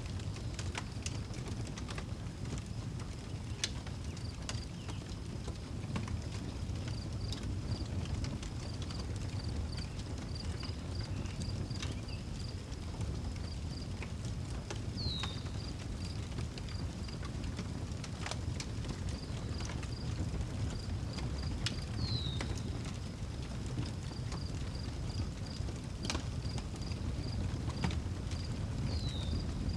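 Outdoor wood fire crackling with sharp pops over a low steady rumble, while crickets chirp steadily in a high pulsing trill. A bird gives a short falling call three times, about seven seconds apart.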